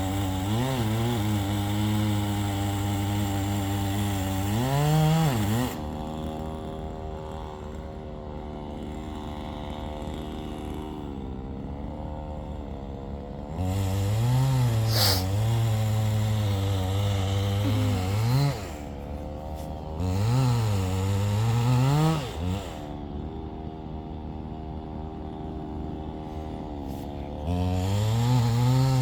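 Chainsaw engine running and revved up in stretches of a few seconds, the pitch wavering while at speed, then dropping back to a lower, quieter idle in between, several times over.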